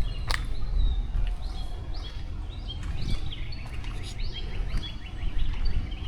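Small birds chirping in quick, repeated short calls over a steady low rumble, with one sharp click just after the start.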